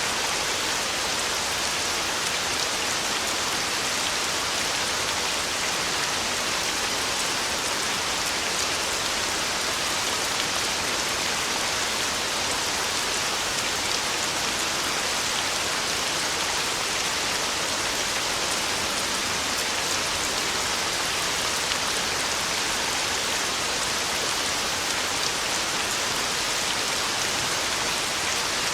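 Heavy rain falling steadily: an even, unbroken hiss of downpour with no thunder.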